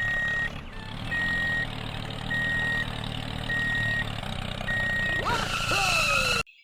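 Vehicle reversing alarm beeping steadily, five single-tone beeps about one a second, over a low engine hum. About five seconds in, a few swooping pitch glides sound, then everything cuts off suddenly.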